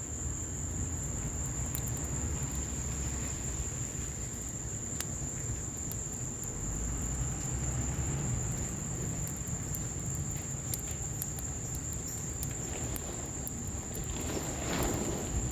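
Wood fire crackling in an outdoor patio fireplace, with sharp pops scattered throughout, as rain falls. A steady high insect trill, like crickets, runs underneath. Near the end comes a brief swelling whoosh.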